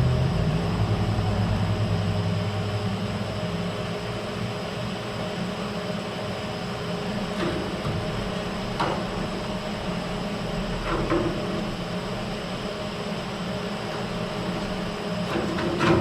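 Steady machine hum, its low droning part fading out a few seconds in, with a few light knocks of metal work.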